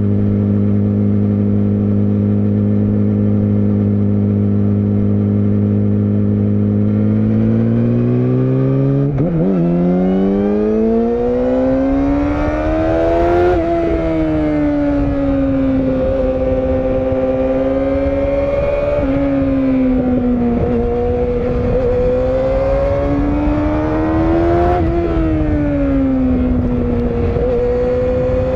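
Yamaha R6 (RJ27) motorcycle's inline-four engine heard from on board. It holds a steady note for several seconds, then climbs in pitch as the bike accelerates. The note drops sharply about halfway through and twice more, rising again in between, with wind rush growing as speed builds.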